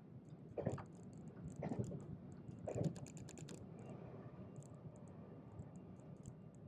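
Train running, heard from inside the carriage: a steady low rumble with three knocks about a second apart early on and light rattling ticks, a quick cluster of them about three seconds in.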